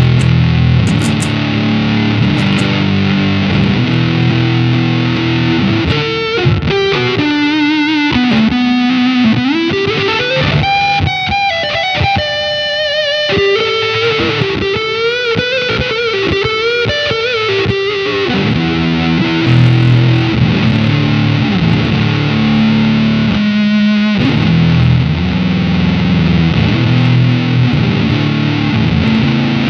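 Electric guitar played through the square-wave voice of an EarthQuaker Devices Data Corrupter PLL synth pedal, giving a really thick, nasty square-wave fuzz. Low chords open and close the passage. In the middle come single notes with slides and vibrato.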